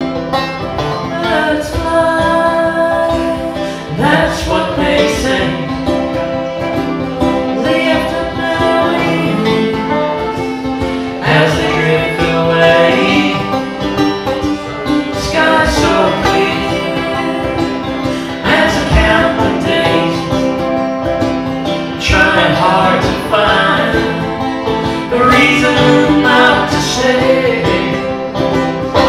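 A band playing a song with plucked strings and singing.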